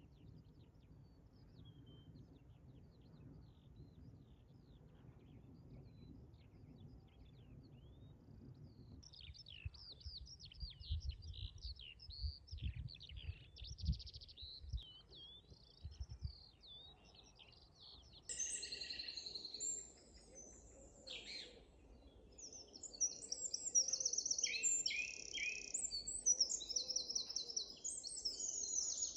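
Songbirds singing, faint and scattered at first, then busy rapid chirping, with loud, ringing song phrases from one or more birds over the last ten seconds. A low rumble runs under the first half.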